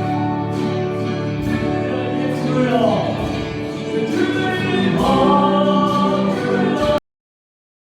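Gospel choir singing with accompaniment and a steady beat, cutting off abruptly about seven seconds in to dead silence.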